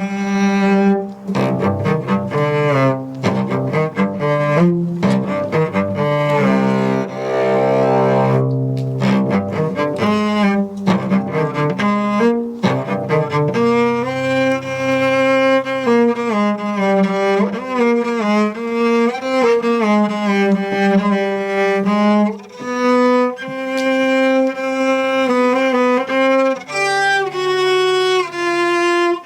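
Live instrumental music on bowed string instruments: a low, cello-like line sustained under a higher moving melody.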